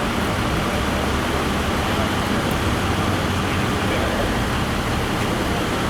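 Steady vehicle noise: an engine running with a low, even hum under a constant rush of road or traffic noise.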